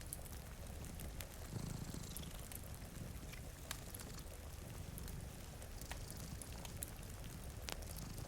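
Layered cozy ambience: a cat purring in a steady low rumble, a wood fire crackling with scattered sharp pops, and a soft hiss of rain.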